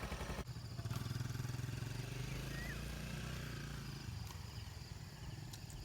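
Small motorcycle engine running steadily at low revs.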